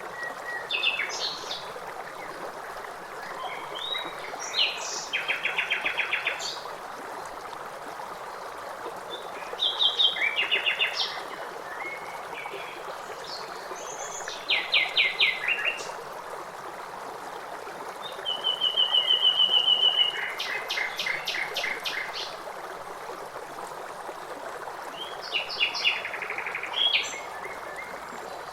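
A songbird singing short phrases, about six in all, each ending in a rapid trill, over the steady rush of running water.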